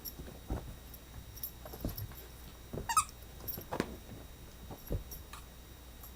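Pembroke Welsh Corgi puppy playing: scattered soft bumps and scuffles, with one short high squeak about three seconds in, the loudest sound.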